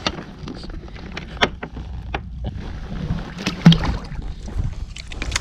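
Handling noises in a fishing kayak: scattered light clicks and knocks, the loudest about three and a half seconds in, over a low steady rumble.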